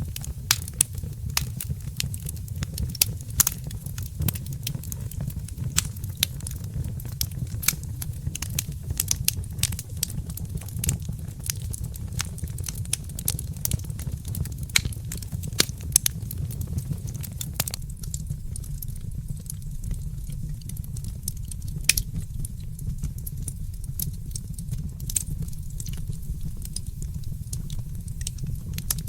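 Wood fire crackling: many sharp pops and snaps over a steady low rumble. The pops come thick and fast at first and thin out about two thirds of the way through.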